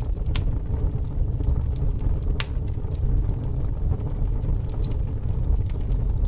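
Fire burning with a steady low rumble and scattered sharp crackles, the loudest pops about half a second in and again at about two and a half seconds.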